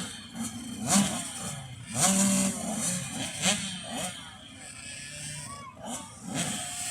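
Several 85cc two-stroke dirt bike engines idling and being revved in uneven blips while the riders wait at the starting line.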